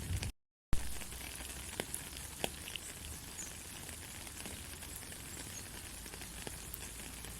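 Steady light rain with scattered drop ticks. The sound drops out completely for a fraction of a second near the start, then comes back with a sharp jump, like a splice in the recording.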